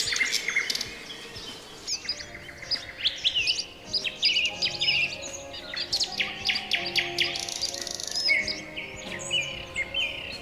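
A chorus of several small birds chirping and calling, with quick overlapping high whistles, trills and short sweeping notes. Soft sustained background music enters underneath about two seconds in.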